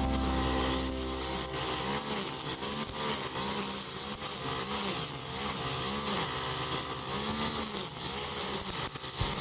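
Brush cutter (string trimmer) engine running under load while cutting grass. Its pitch rises and falls over and over, roughly every two-thirds of a second, as the cutting head swings through the grass.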